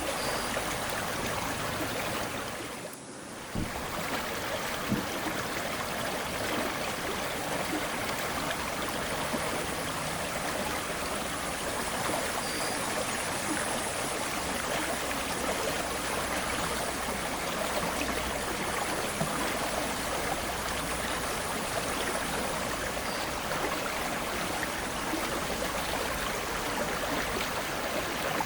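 Steady rush of flowing river water, with a brief drop in level about three seconds in.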